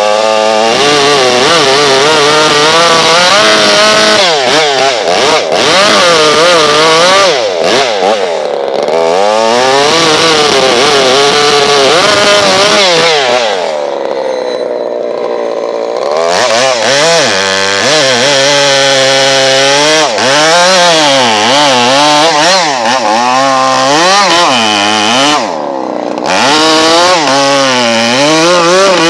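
Husqvarna 390 XP two-stroke chainsaw with a modified muffler running loud, its revs wavering up and down repeatedly, falling off briefly about halfway through and again near the end before climbing back.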